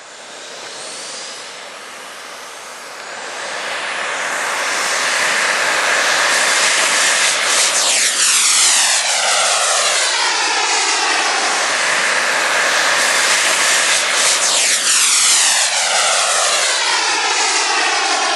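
Gas-turbine engine of a radio-controlled model jet at high power. The noise swells over the first few seconds, then stays loud as the jet sweeps past twice, about seven seconds apart. It cuts off abruptly at the end.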